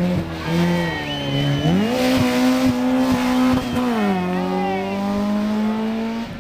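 Rally car engine running hard under load, its pitch stepping up and down several times as the driver works the throttle and gears, with a few sharp pops in the middle.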